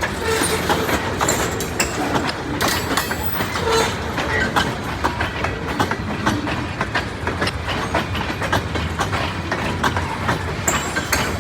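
Freight train cars rolling past at close range, wheels clicking and knocking steadily over the rail joints, with a few brief high squeaks from the wheels.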